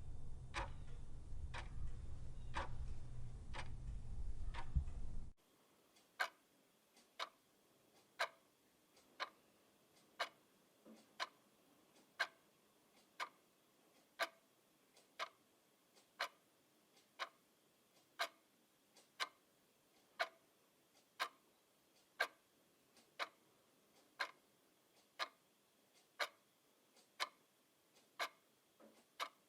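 Clock ticking. For the first five seconds the ticks come a little faster than one a second over a low hum; then the hum drops out and the ticking changes to a clean, steady one tick per second.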